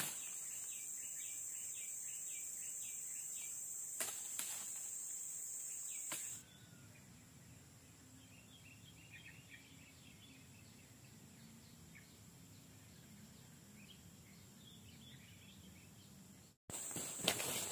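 Tropical forest ambience: a steady high-pitched insect drone with repeated bird chirps. About six seconds in it cuts abruptly to a quieter stretch with faint bird calls and a low rumble. Near the end the insect drone comes back with a few sharp clicks.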